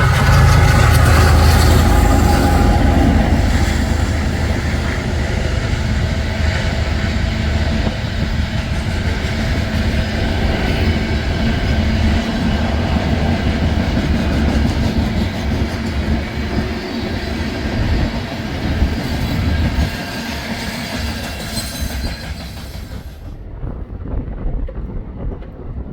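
Freight train passing: a heavy low rumble at first, then the steady noise of the passing cars, fading away near the end.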